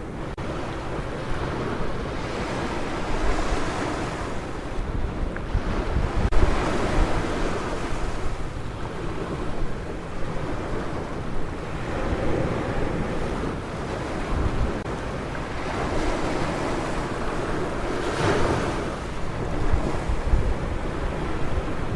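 Ocean surf: waves breaking and washing up the beach, surging every few seconds with the strongest surge near the end. Under it runs a steady low rumble of wind on the microphone.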